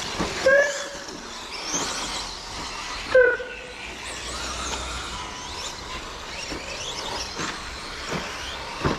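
Several 1:10 brushless electric RC short course trucks racing, their motors whining up and down in pitch as they accelerate and brake. Two louder, brief sounds stand out, about half a second and three seconds in.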